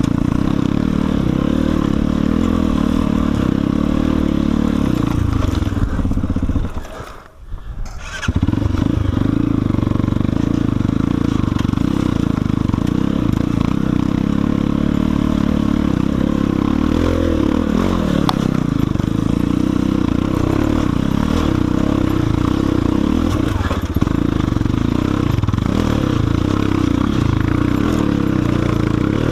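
Enduro motorcycle's single-cylinder engine running as it rides a trail, the revs rising and falling. The sound drops away briefly about seven seconds in, then resumes.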